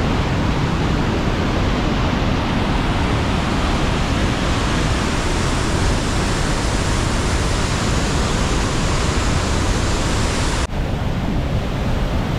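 Rhine Falls, a large river waterfall, heard at close range: a loud, steady, dense rushing of falling water. About two seconds before the end it drops out for an instant and returns a little duller.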